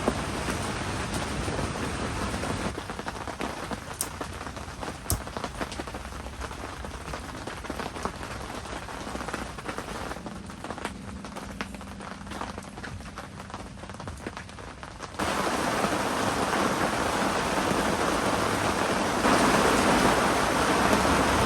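Heavy rain falling, with separate drops and drips clicking through a lighter stretch in the middle. About fifteen seconds in, the rain suddenly becomes much louder, and it swells again near the end.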